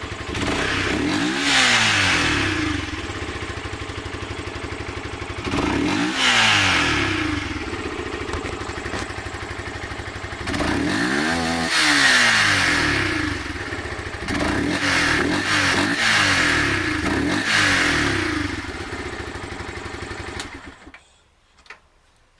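Yamaha R15 V2's single-cylinder engine, breathing through its stock exhaust fitted with a reversible tuning modification, idling and blipped several times, each rev rising and falling back to idle, with a longer rev near the middle and a quick run of short blips after it. The engine is switched off near the end.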